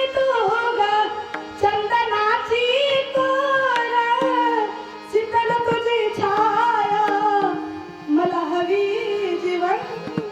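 Marathi devotional kirtan song: a high voice sings long, wavering held notes over tabla strokes and a steady drone.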